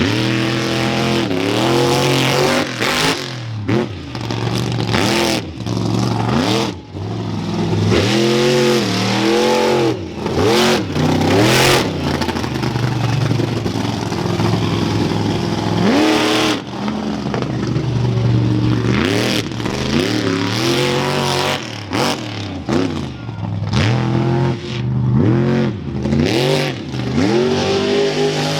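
Monster truck engine revving hard over and over, its pitch climbing and dropping every second or two, with sharp bangs in between.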